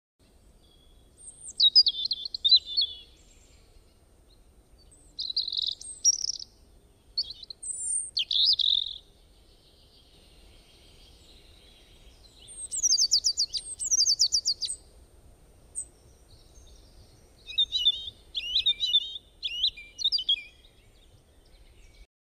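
Birds chirping in about five short phrases with pauses between, some of them fast runs of repeated notes. The sound cuts off suddenly near the end.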